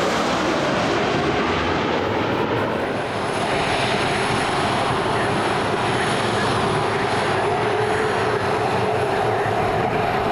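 Jet engines of a Boeing 737-300 (CFM56-3 turbofans) running, a loud steady rush of noise with a low hum and a thin high whine.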